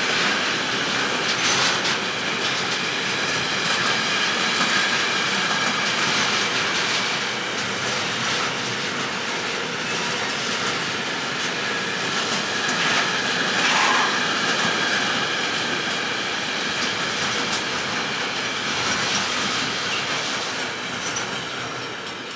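Container wagons of a freight train rolling past at speed: a steady rumble of wheels with clickety-clack over the rail joints and a faint high squeal from the wheels. It fades near the end as the last wagons go by.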